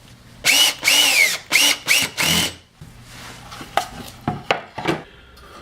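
Power drill driving screws into wood: three short runs of motor whine that rise and fall in pitch in the first few seconds, followed by a few light knocks and handling sounds as the parts are moved.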